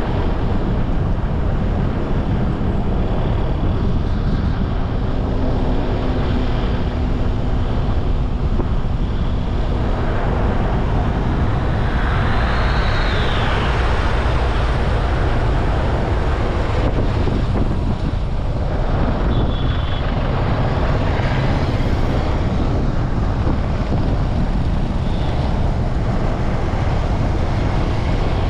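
Steady low rumble of wind on the microphone and road noise from a motorbike riding through traffic. About twelve seconds in, a brief tone rises and falls.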